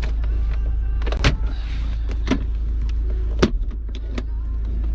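Several separate sharp clicks and knocks, about a second apart, over a steady low rumble.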